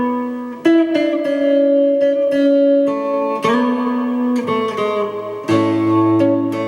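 Kit-built Jag-style electric guitar played through an amplifier: held chords and notes ringing and changing every second or so, with a deeper, louder chord coming in about five and a half seconds in.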